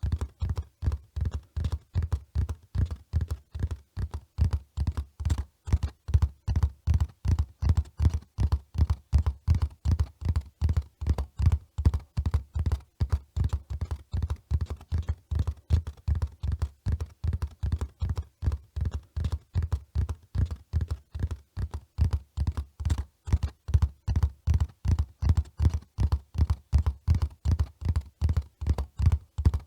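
Horse hoofbeats at a run: a steady, even rhythm of dull, deep thuds that never stops.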